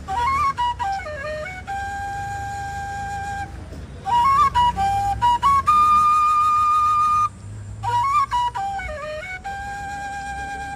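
A flute playing a slow solo melody: three phrases, each made of quick ornamented turns that settle into a long held note, with short breaths between them.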